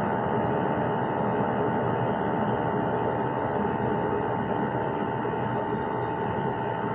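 Gas furnace running steadily, burners firing and fans turning, heard as an even rushing noise with a constant whine on top. The furnace is firing lean, with too much oxygen in the flue gas from low gas pressure.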